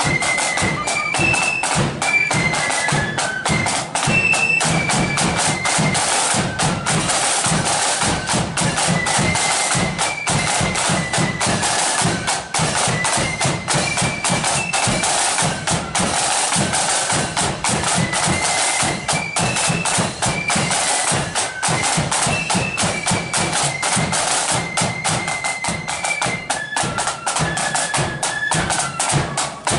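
Marching flute band playing a tune: massed flutes carry a high stepping melody over fast, dense snare drumming and a bass drum.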